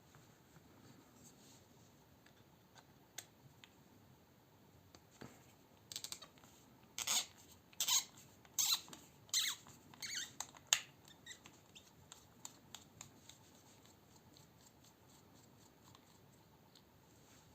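A run of short squeaky scrapes and clicks from small metal knife parts and tools being handled while a folding knife is taken apart, bunched together about six to eleven seconds in.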